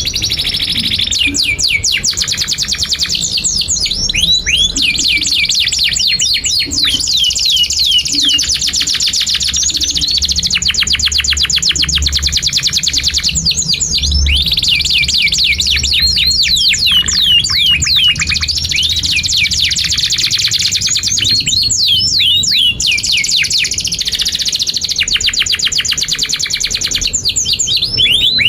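Domestic canary singing a long, unbroken song: runs of very fast repeated notes in trills lasting a second or two, linked by quick gliding whistled notes, all high-pitched.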